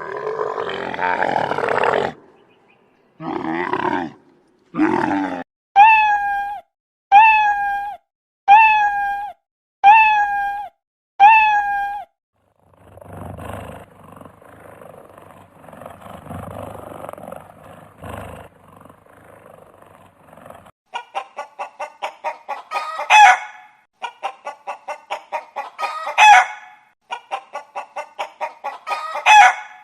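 A run of different animal calls, one recording after another. First comes a roar-like call, then two shorter calls, then five evenly spaced pitched calls about a second and a half apart. After a fainter rough stretch, the last part is rapid clucking-like pulses broken by three loud cries.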